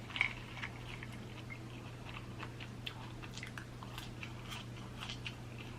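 Close-miked mouth sounds of chewing a cheesesteak sub: faint, scattered wet clicks and smacks, with a slightly louder one just after the start.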